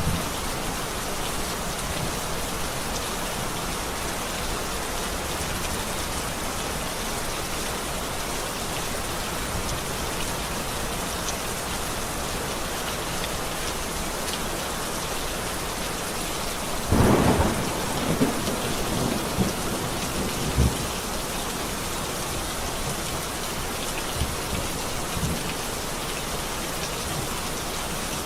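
Steady heavy rain with a clap of thunder a little past halfway, followed by a few rumbling aftershocks over the next few seconds.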